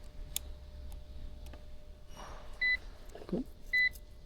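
Digital multimeter's continuity beeper giving two short, high beeps about a second apart, each meaning the probes have found a closed circuit. A sharp click comes just before, near the start.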